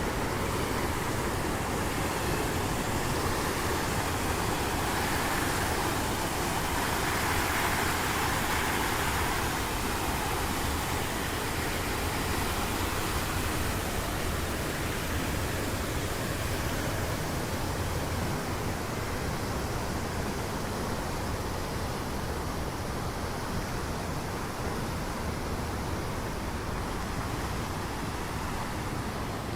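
Steady hiss of falling rain, swelling briefly between about five and ten seconds in.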